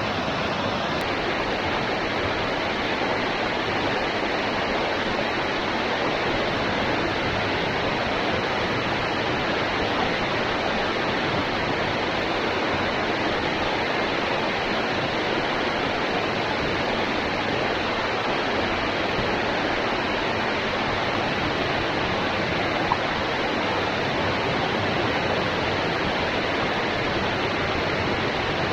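Steady rushing of a waterfall, water pouring down continuously without letup.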